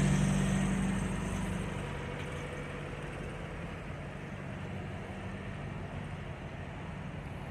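Idling diesel engines of stopped semi trucks, a steady low hum that is loudest at the start and fades over the first two seconds to a quieter, even rumble.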